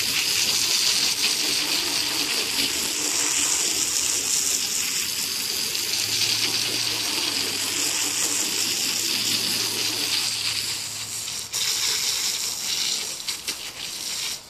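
A jet of water spraying onto a quail droppings tray, rinsing the caked poop off the board. It is a steady hiss that cuts off suddenly at the end.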